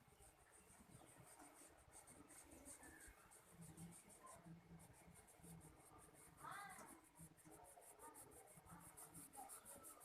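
Faint, rapid scratching of colouring strokes on paper, repeated quickly throughout. A faint short whine comes about two-thirds of the way through.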